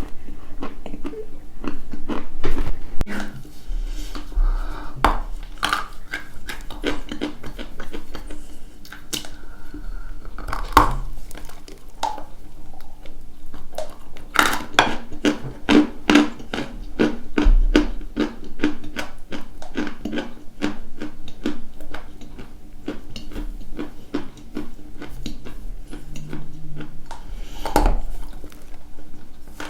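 Dry white chalk being crunched close to the microphone: a dense run of crisp, irregular crackles and snaps that grows thickest partway through, over a faint steady low hum.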